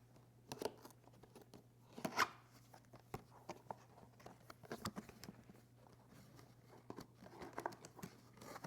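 Packaging of a headphone box being handled and opened: scattered crinkles, taps and tearing of cardboard and plastic, with the loudest rip about two seconds in.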